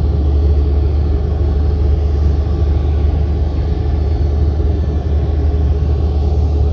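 Jet airliner engines heard from a distance as a steady, deep rumble with a fainter hiss above it.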